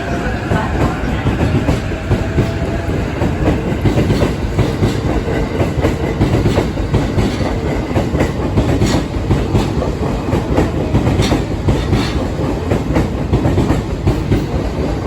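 E353 series electric train moving out of the station, a steady rumble with wheels clattering over rail joints and points.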